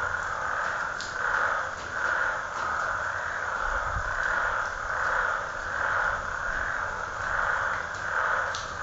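Dense night chorus of frogs calling together, swelling and fading in waves a little more than once a second.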